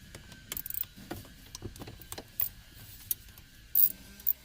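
Ratchet wrench with a T30 Torx bit clicking in irregular runs as bolts are backed out, with one louder, sharper click near the end.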